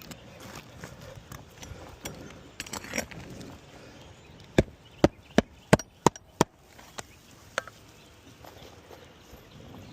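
Hammer driving roofing nails through an asphalt shingle: six quick, sharp strikes about three a second near the middle, then two lighter taps. Quieter handling and scraping noises come before the strikes.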